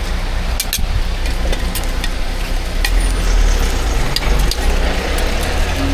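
Egg pancake cooking on a hot griddle with a steady sizzle and several short sharp clicks of a utensil. A constant low rumble sits underneath.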